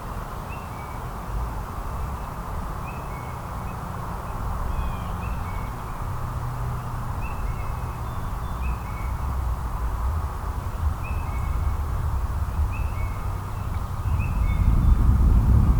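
Outdoor birds calling: short two-note calls repeated every second or two, over a steady low rumble that grows louder near the end.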